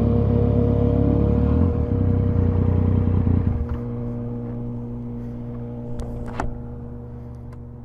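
Motorcycle engine running steadily, then dropping to a quieter idle about three and a half seconds in. A couple of short clicks come about six seconds in, and the sound fades away near the end.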